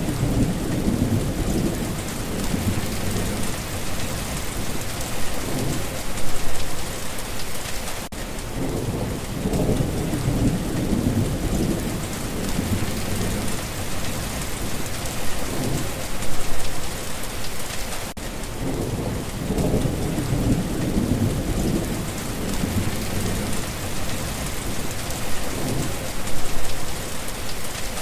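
Steady heavy rain pattering, with low thunder rumbles swelling and fading several times underneath.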